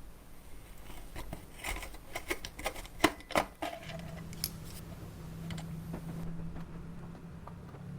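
A run of sharp clicks and taps of hard objects being handled for a few seconds, then a steady low hum that sets in about four seconds in.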